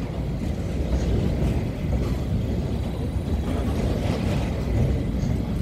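DB Class 442 (Bombardier Talent 2) electric multiple unit passing, its wheels on the track making a steady low rumble with faint clicks.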